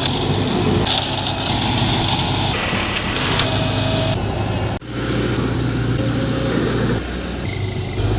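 Heavy diesel engine running steadily. The sound breaks off abruptly about five seconds in and resumes at once.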